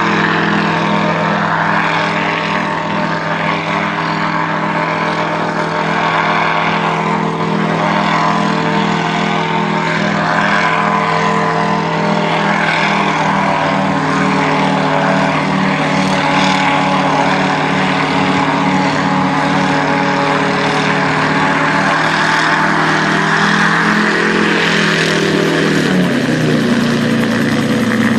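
Gyroplane engine and propeller running steadily at a constant pitch, then dropping in pitch over the last few seconds as the throttle comes back.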